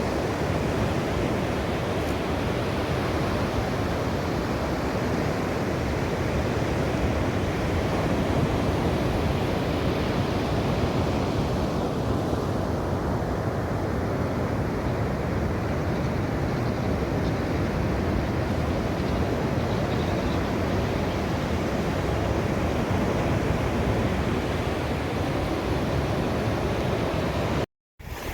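Ocean waves washing on the shore in a steady rushing surf. The sound cuts out for an instant near the end.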